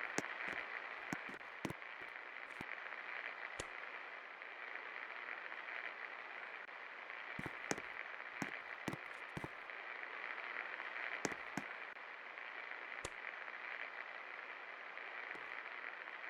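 36-inch Gold Star industrial ceiling fan running: a steady rush of air with scattered sharp clicks.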